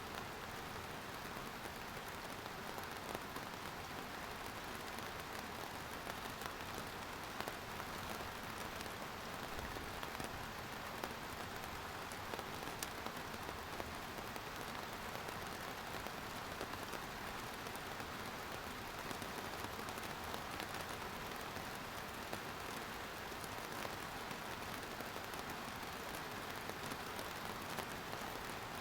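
Steady rain falling, an even hiss of drops with scattered individual drop taps.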